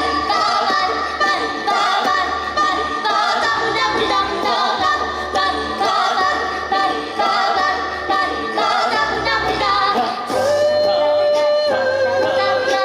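Small choir singing a cappella, with a sung bass line pulsing under several voices in harmony. About ten and a half seconds in, a long note is held, then steps down a little near the end.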